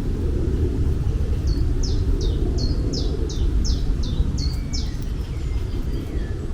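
A songbird repeats about ten short, high, downward-sliding notes at about three a second, over a steady low rumble.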